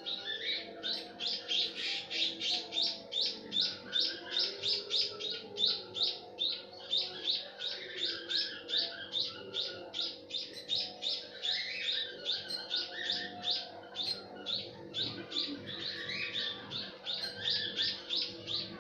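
White-headed munia chirping in a fast, steady series, about four high chirps a second, without a break.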